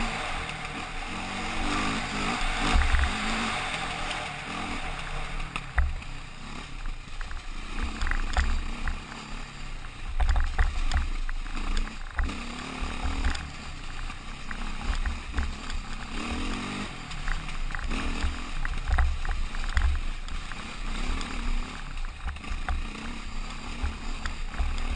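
Riding motorcycle's engine and road noise, with wind buffeting the microphone in irregular low gusts and occasional small clicks.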